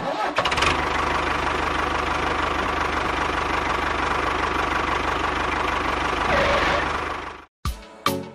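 A small motor running steadily with a fast low pulsing, cutting off abruptly about seven seconds in.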